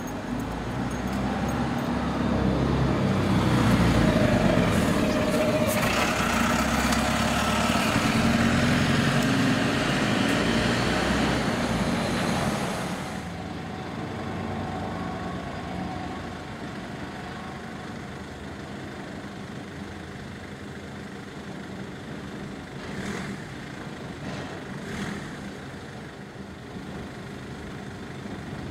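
Train noise at a level crossing: a loud passing rumble for about ten seconds that stops abruptly. It gives way to quieter traffic idling while a GB Railfreight freight train rolls across, with a few faint clicks.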